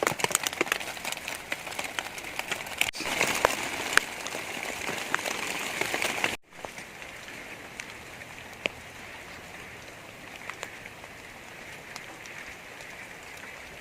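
Rain falling, with many individual drops ticking sharply against a surface. After a brief cut about six seconds in, it continues as a softer, steadier hiss of rain.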